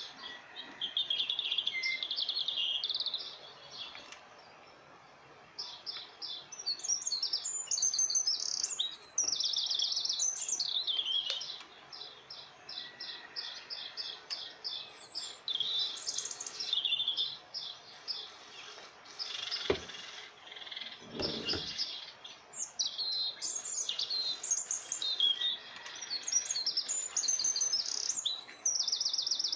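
Small birds chirping and trilling rapidly and almost without pause. About two-thirds of the way in there is a sharp click, followed shortly by a brief low knock.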